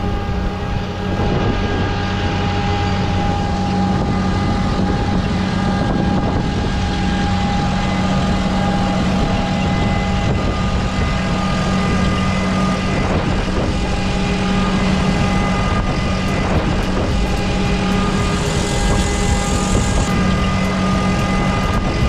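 A machine's engine or motor running steadily, a constant drone with a steady whine held over it.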